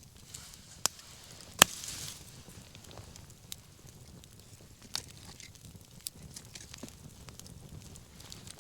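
Wood bonfire burning with scattered sharp pops and crackles over a low steady hiss; one loud pop about a second and a half in, followed by a brief hiss.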